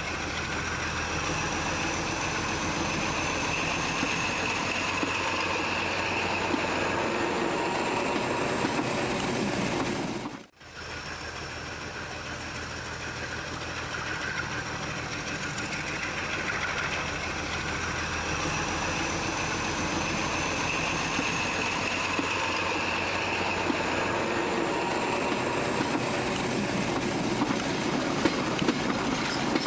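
Train running: a steady rolling rumble with a thin high whine that slowly rises in pitch. It cuts out abruptly for a moment about ten seconds in, then picks up again.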